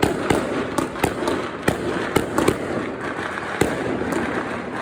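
Fireworks and firecrackers going off all around: irregular sharp bangs, several a second, over a constant crackle and rumble of many distant explosions.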